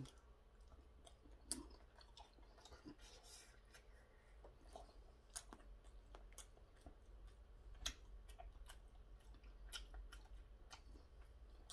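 Faint chewing of a kimchi dumpling, with scattered soft clicks.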